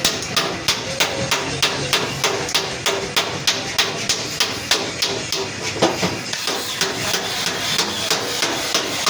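Steady, rapid hammer blows on sheet metal, about three a second: panel-beating the accident-damaged front body panels of a Suzuki Ravi pickup.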